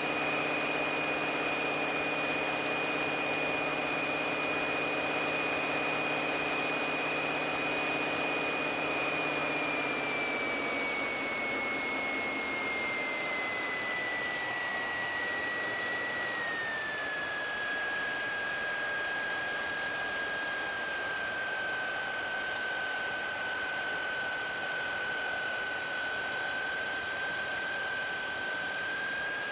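Mooney M20K's turbocharged engine and propeller droning in the cabin, with a steady high whine. The whine steps down in pitch about a third of the way in and again about halfway, and a low hum drops out at the first step, as engine power is changed.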